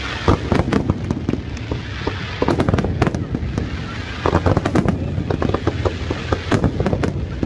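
Fireworks display: clusters of sharp bangs and crackles every second or two over a continuous low rumble.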